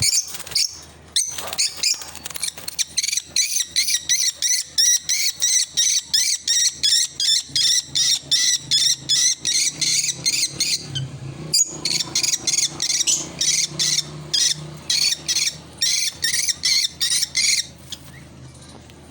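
Lutino lovebird calling: a long run of short, high chirps, about three a second, with a brief pause partway through, stopping shortly before the end.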